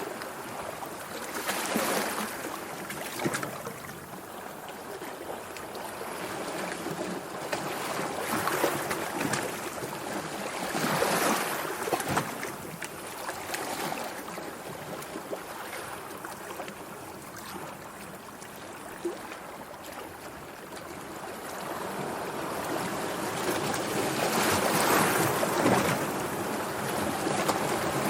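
Sea water lapping and sloshing, rising and falling in irregular swells every few seconds with small splashes, loudest near the end.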